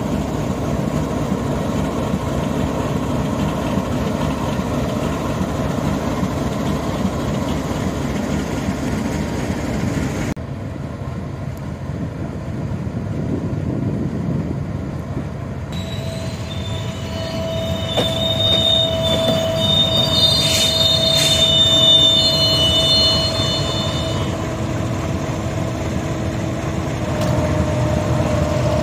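A train running on the rails with a steady rumble. After a cut about ten seconds in comes a diesel locomotive with its coaches, and high-pitched wheel squeal from the rails lasting several seconds, roughly midway to three-quarters through.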